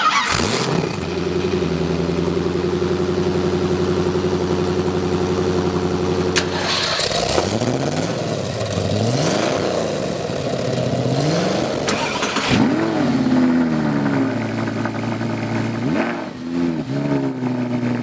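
Car engine firing up with a short burst, then idling steadily. From about seven seconds in it is revved again and again, the pitch climbing and falling with each blip, and it settles briefly between revs.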